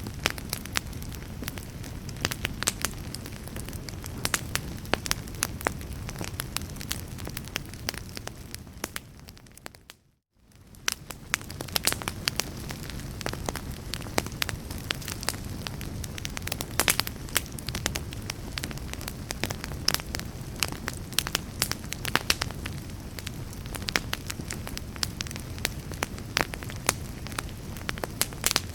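Wood fire crackling in a fireplace: irregular sharp pops and snaps over a steady low rumble of flame. About ten seconds in, the sound briefly fades out to silence and fades back in.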